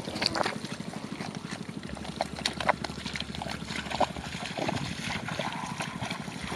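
Shallow muddy water splashing and sloshing, with many sharp irregular slaps as fish are grabbed by hand in the mud.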